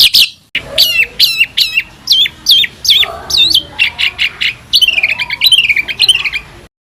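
Songbird calling in a fast series of sharp repeated notes, each sweeping downward in pitch, after a brief rapid trill at the start. The notes come closer together toward the end, then the recording cuts off abruptly.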